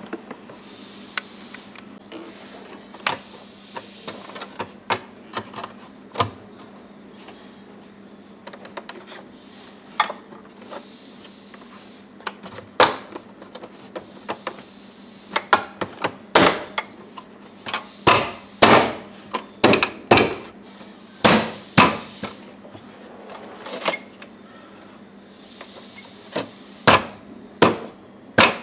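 A series of irregular knocks and clacks from hands and tools working on a car's interior trim and seat belt parts. They are sparse at first and come thicker and louder from about halfway through.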